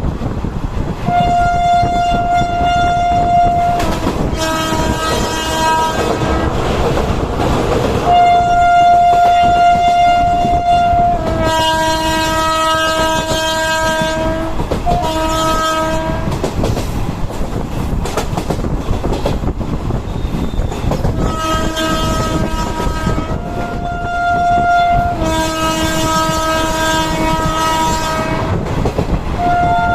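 Train locomotive horn sounding again and again in long blasts, alternating between a higher and a lower note, over the steady rumble and wheel clatter of the moving train.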